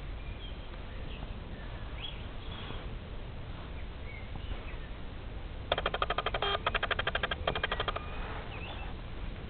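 Garden birds: scattered faint short chirps over a low steady rumble. About six seconds in comes a loud, rapid pulsed chattering call in three quick bursts lasting about two seconds.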